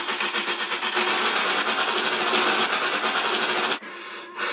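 Train running along the track, a rapid rhythmic rushing noise that cuts off suddenly near the end.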